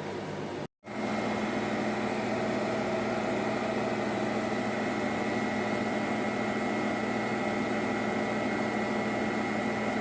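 Bosch front-load washing machine spinning at a steady speed: an even motor whine and drum hum. It cuts out for a split second about a second in, then comes back steady and slightly louder.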